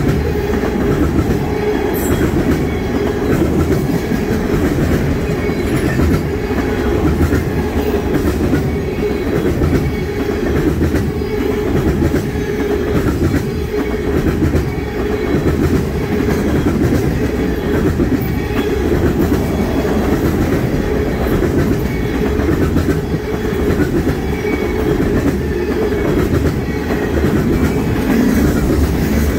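Railroad tank cars of a freight train rolling past close by: a steady low rumble of steel wheels on rail, with repeated clicks of wheels over rail joints.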